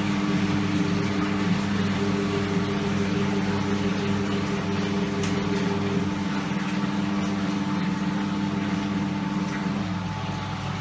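Hoover Electra 535 Dual Spin washing machine running with a steady, even motor hum, as the rinse water is pumped out ahead of an interim spin.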